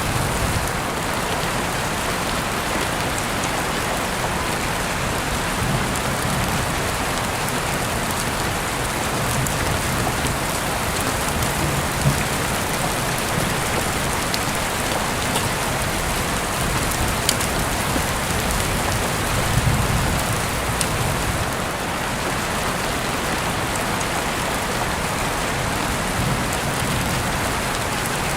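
Heavy rain falling steadily, heard through an open window, with a few sharp drip ticks over the dense patter.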